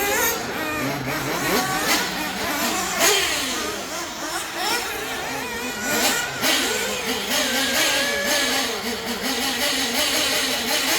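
Several nitro (glow-engine) 1/8-scale RC buggy engines revving and easing off in turn as the cars lap the circuit. Their overlapping whining pitches rise and fall throughout.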